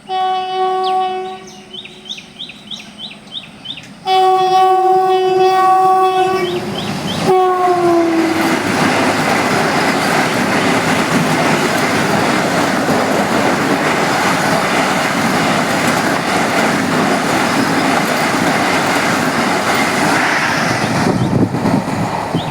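Indian Railways train blowing its horn as it approaches at speed: a short blast, then a longer one about four seconds in whose pitch drops as the train reaches the crossing. The train then passes at speed with a loud, steady rush of wheels on rail that eases off near the end.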